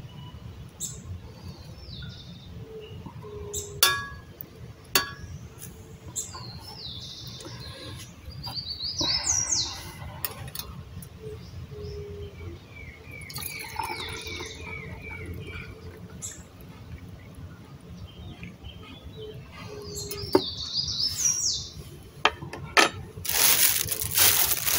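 Small birds chirping and twittering on and off, with a few sharp clicks and knocks from things being handled. Near the end a plastic bag crinkles loudly as it is opened.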